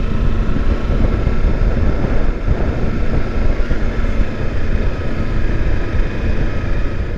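Kawasaki Versys X300's parallel-twin engine running at a steady cruise while riding, under heavy wind buffeting on the microphone.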